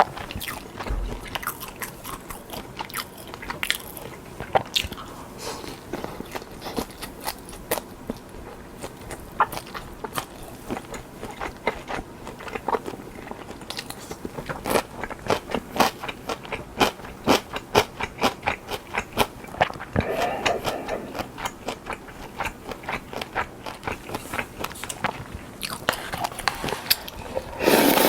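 Close-miked crunching and chewing of battered, deep-fried king prawn, with sharp crisp cracks of the coating and a steady run of bites, about two or three a second in the middle stretch, and louder mouth noise near the end.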